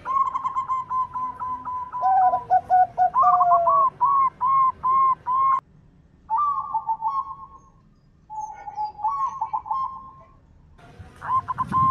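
Zebra dove (perkutut) cooing: rapid runs of short notes around one pitch, with some lower drawn-out notes. The phrases break off abruptly about halfway through and again near the end.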